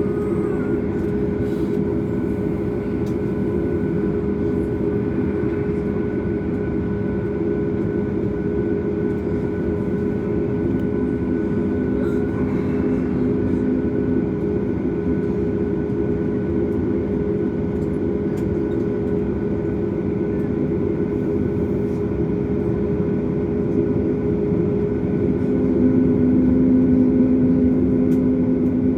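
Steady cabin drone inside a Boeing 737 MAX on the ground, its CFM LEAP-1B engines at idle with the air-conditioning running, several steady hum tones throughout. The drone grows a little louder with a stronger low hum near the end.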